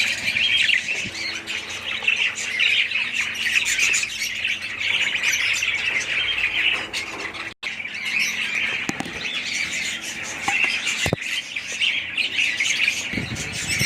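A flock of budgerigars and other small parrots chattering and squawking continuously, a dense mass of overlapping chirps, broken off for an instant a little past halfway.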